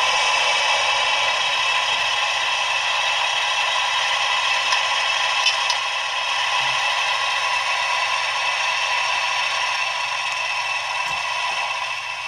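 Diesel engine sound of an NS 2200 locomotive played by the sound decoder of a PIKO model through its small loudspeaker, running steadily with a rattly, thin tone that lacks bass.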